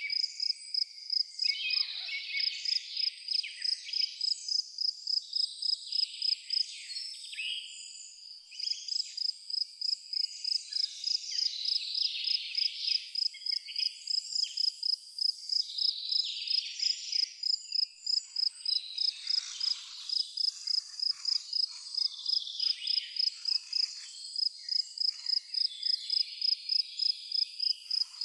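A cricket chirping in a steady rhythm, about two to three chirps a second, with birds chirping and twittering throughout. The cricket stops for a moment about seven seconds in, then carries on.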